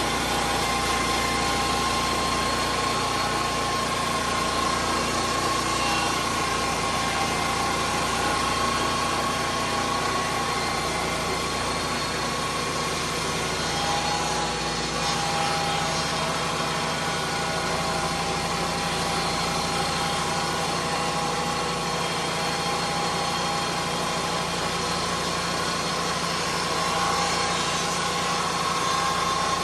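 Lucas Mill 10-30 swing-blade sawmill running steadily on its petrol engine, with a slight drop in pitch about halfway through.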